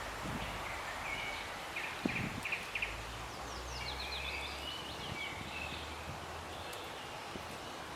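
A small bird singing outdoors in short groups of quick repeated notes and brief falling whistles, over a steady low background hum with a few soft low thumps.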